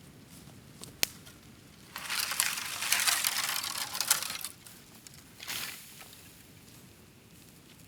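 Bamboo burning in an open bonfire. There is a sharp crack about a second in, then a loud stretch of dense crackling and rustling for about two and a half seconds, and a shorter burst a second later.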